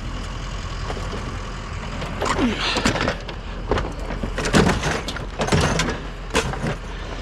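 Irregular clanks and rattles of scrap items being handled and dropped, several separate knocks a second or so apart, over a steady low hum.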